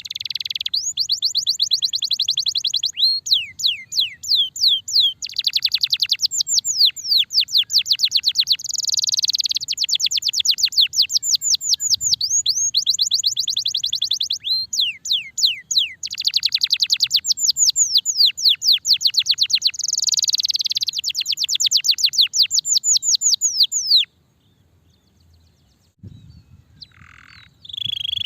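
Domestic canary singing: long, fast rolling trills of rapid high sweeping notes, in phrases of a few seconds that follow one another with hardly a break. The song stops about four seconds before the end, and a few softer chirps follow.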